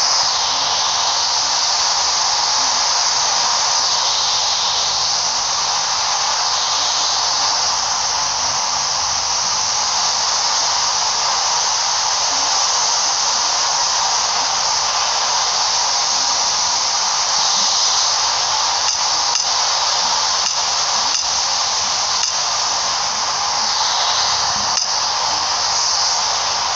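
A steady, loud hiss with no pitch, with a few faint clicks partway through.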